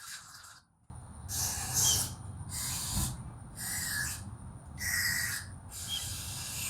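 Drill spinning a small brush in short bursts, about one a second, scrubbing out the transmission bolt holes on a diesel engine block.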